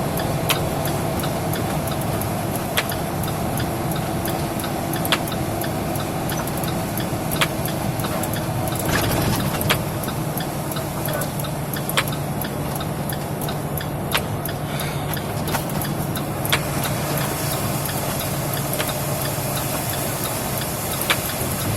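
Steady engine and road noise inside a car cabin while driving, with a sharp tick repeating about every two and a quarter seconds.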